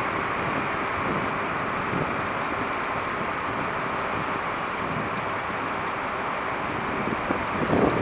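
Steady street traffic running on a snowy downtown road, a continuous noise of vehicles and tyres. Wind buffets the microphone near the end.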